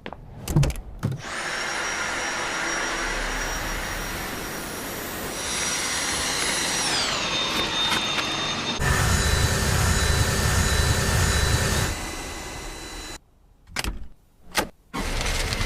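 Cordless stick vacuum cleaner's motor running with a steady high whine. About seven seconds in, the whine's pitch glides down. From about nine seconds it runs louder and deeper, then cuts off near thirteen seconds, followed by a few sharp clicks.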